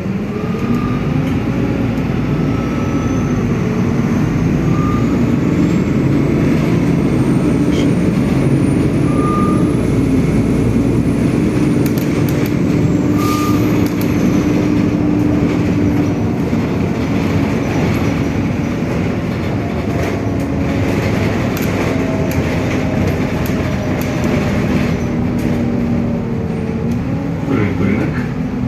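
City bus driving, heard from inside the cabin: the engine runs steadily, its pitch rising and falling as the bus changes speed. Four short high beeps sound about four seconds apart in the first half.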